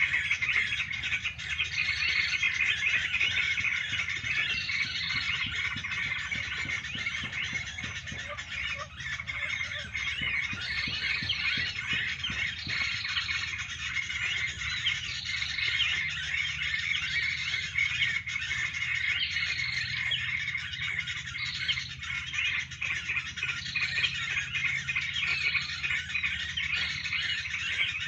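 Dense chorus of many small songbirds chirping and twittering without pause, with a short high note repeating every couple of seconds.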